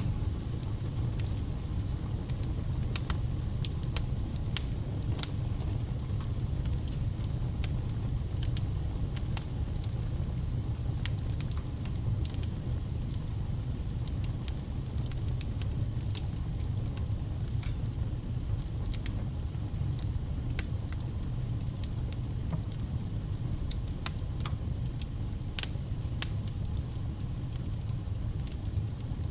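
Wood fire burning, with many sharp, irregular crackles and pops over a steady low rumble of the flames.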